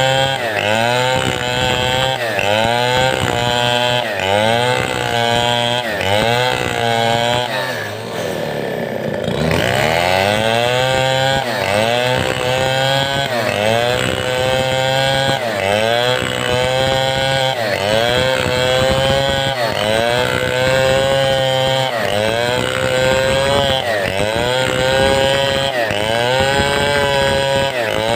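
Large two-stroke chainsaw, a Stihl 070-type (New West 707), running hard in a cut through timber. Its engine note dips and recovers about once a second as it is loaded. About eight seconds in it falls briefly to low revs, then winds back up.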